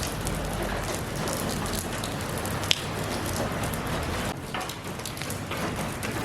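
Steady rainfall, with many separate drops pattering on a hard surface and one sharp louder drop or tick about two and a half seconds in.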